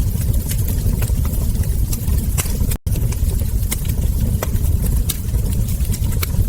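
Wood fire crackling and popping, sharp irregular crackles over a steady low rumble, with a brief dropout to silence a little under three seconds in.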